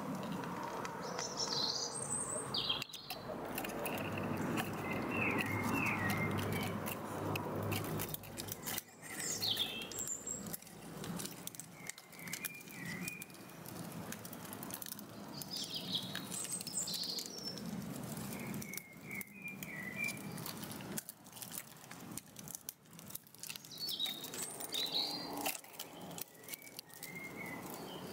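Birds chirping in short phrases every few seconds, over a rustling with small crackles that is heaviest in the first several seconds.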